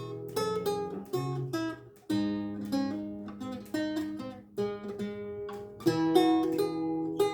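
Renaissance lute with gut strings played solo: plucked chords and single-note lines that ring on, with a brief pause about two seconds in before a full chord sounds.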